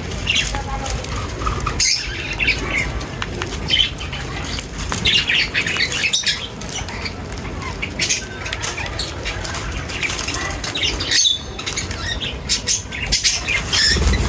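A group of small birds chirping and squawking in many short, sharp calls, with wings flapping in between.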